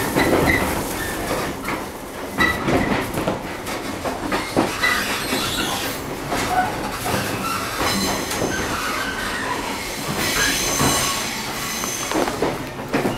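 Running sound of a JR 115 series 3000 subseries electric train, picked up beside the coupler between cars: the coupler clanks and knocks over the steady wheel-on-rail noise. A high squeal from the wheels joins in about ten seconds in and fades a couple of seconds later.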